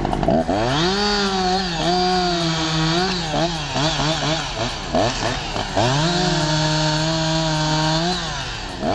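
Chainsaw engine revving up to full throttle and holding steady, dropping back and stuttering in the middle, then revving up and holding again before falling off near the end.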